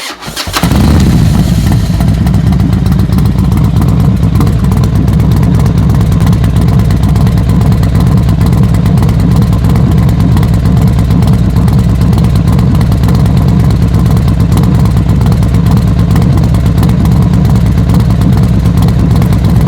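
Motorcycle engine running loud and steady at a constant speed, a low pulsing exhaust note that starts about half a second in.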